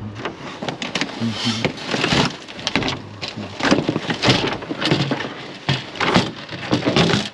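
Scrap items being picked up and handled: a run of irregular clattering knocks, bangs and scrapes, loudest in the second half.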